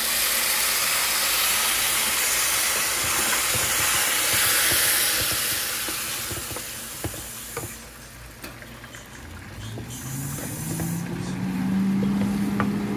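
Food sizzling hard in a hot frying pan, a loud hiss that dies down after about six seconds, with a few utensil clicks. Near the end a motor hum starts low, rises in pitch and then holds steady.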